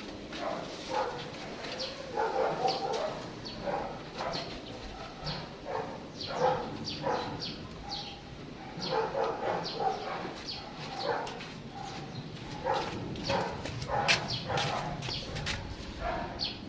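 Many short, high animal calls repeating several times a second, over a low background hum.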